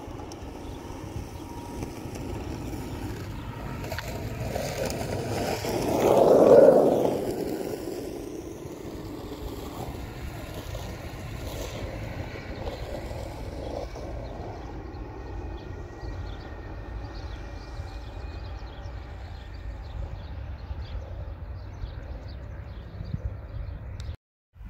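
A white ICE high-speed train passing at a distance makes a rushing sound. It swells to a peak about six seconds in and then fades, over a steady low rumble of wind on the microphone.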